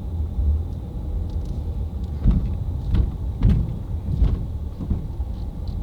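Low, steady rumble of a car driving slowly, heard from inside the cabin, with a few brief knocks in the middle.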